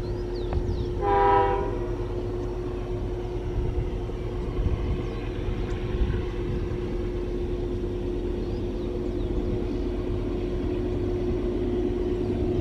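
Heavy freight train climbing a steep grade, running with a continuous low rumble and a steady hum, with one short locomotive horn blast about a second in.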